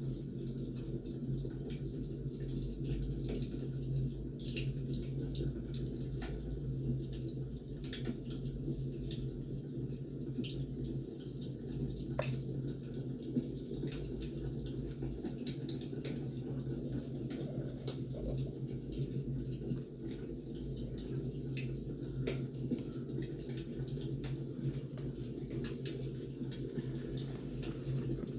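Wood fire crackling: scattered sharp pops and snaps over a steady low rush of burning.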